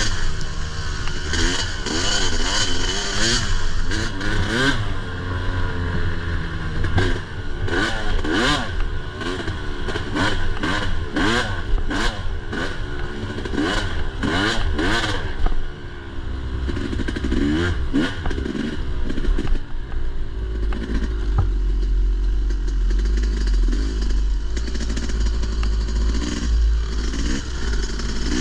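Dirt bike engine on a rough trail, revved up and down again and again as the throttle is worked, with clattering knocks from the bike bouncing over ruts. About 20 seconds in, the revving settles into a steadier run.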